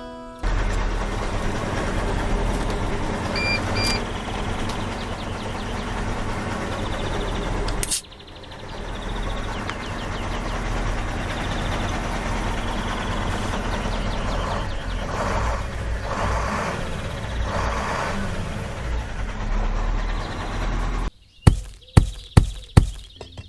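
A small motor running steadily, briefly cut off about eight seconds in. Two short high beeps sound near four seconds. Several sharp knocks or clicks come near the end.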